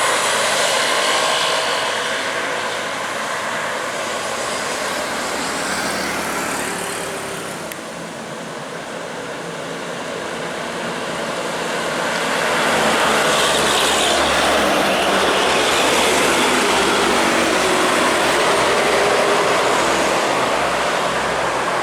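Road traffic passing close by: a steady rush of vehicle and engine noise. It eases off about a third of the way in, then builds again and stays loud through the second half, as with large vehicles going past.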